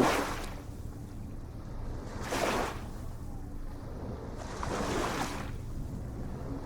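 Ocean waves washing in, a rushing surge about every two and a half seconds (three in all) over a steady low rumble.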